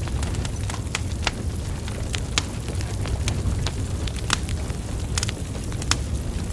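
Wood fire burning: a steady low rumble of flames with frequent sharp, irregular crackles and pops from the logs.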